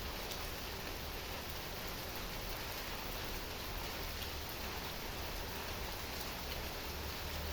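Steady heavy rain: an even hiss of falling rain with scattered drop ticks, over a low rumble.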